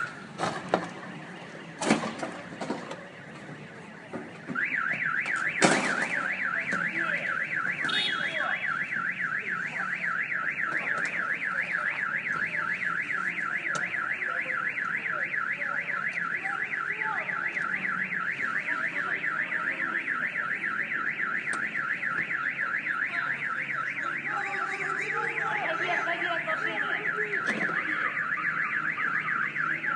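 Car alarm sounding a rapid electronic warble, about four up-and-down sweeps a second, starting a few seconds in after a few sharp knocks and then running on steadily.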